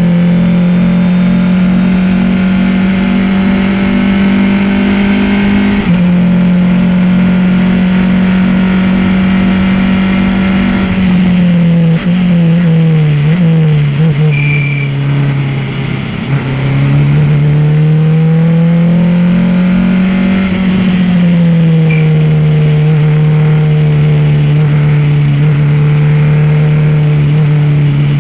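Race car engine running hard on a track. Its pitch climbs and then drops sharply at an upshift about six seconds in, steps down through downshifts under braking about halfway through, then climbs steadily again before easing back and holding steady near the end.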